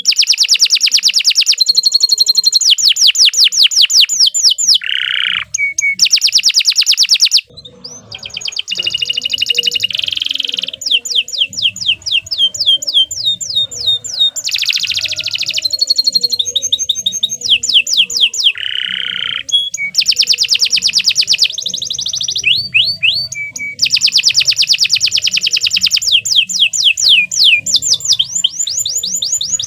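Domestic canary singing a long, continuous song of rapid trills, each phrase a fast run of one repeated note, changing from phrase to phrase, with one short pause about seven seconds in.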